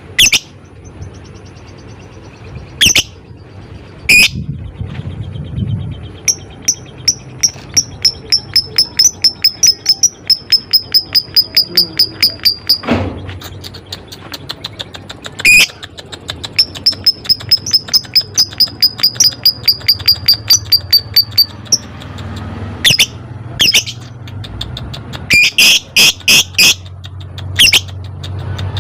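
Lovebird calling: long runs of rapid sharp ticking chirps, about four a second, the 'ngetik' ticking song, broken by a few loud single shrill calls.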